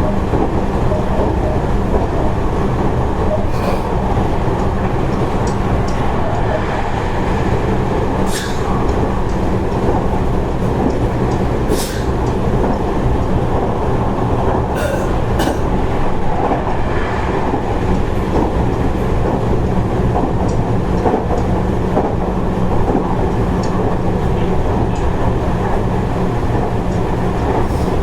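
Seibu 30000 series electric train running between stations, heard from inside the passenger car: a steady rumble of wheels and running gear, with a low steady hum and a few sharp clacks from the track.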